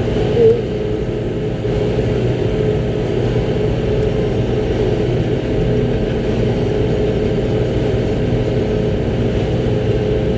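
Concrete mixer truck's diesel engine running steadily, heard from inside the cab as a constant drone.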